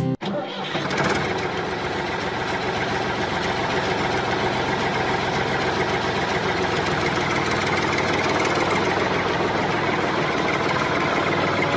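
Small gasoline engine of a mini water pump, running steadily at an even speed.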